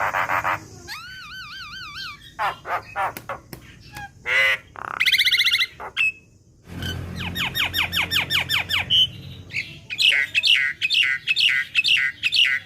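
Young Javan mynas calling in a varied run of wavy whistles, harsh squawks and quick series of falling notes, with a brief pause about halfway through.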